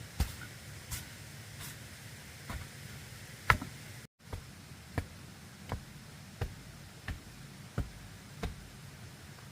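A hand tool striking bamboo in steady repeated knocks, about three every two seconds, with a momentary break in the sound just past the middle.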